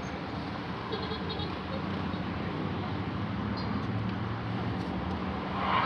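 Steady low engine-like hum, with a few faint light ticks about a second in and again near four seconds.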